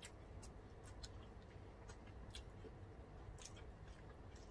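Near silence with a few faint, scattered clicks: the mouth sounds of someone chewing food.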